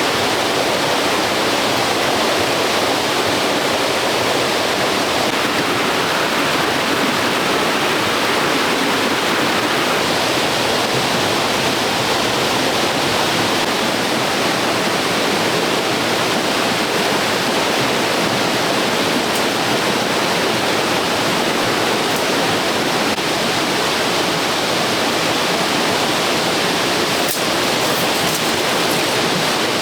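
Steady rushing of running water, even and unbroken, with a few faint clicks near the end.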